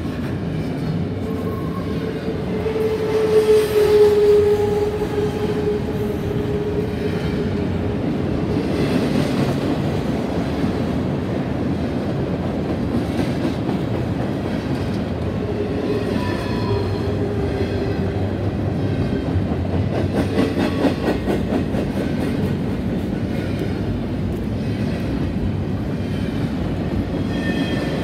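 CSX freight train cars rolling past with a steady rumble of steel wheels on rail. Wheels squeal briefly about three seconds in and again around sixteen seconds, and a quick run of rhythmic clicking comes around twenty seconds.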